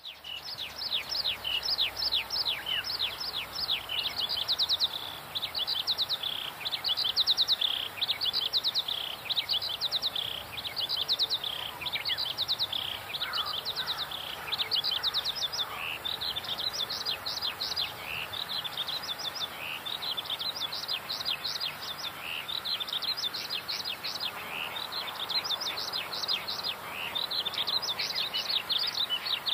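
Birds calling: a continuous stream of quick, high chirps that each slide downward, several a second.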